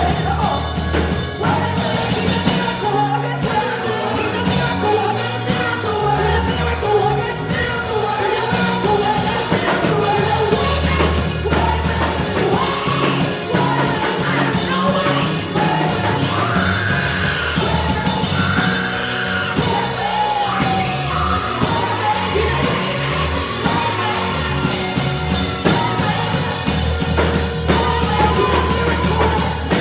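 Live worship band music with singing, a steady bass and drums under wavering sung lines, in a large room.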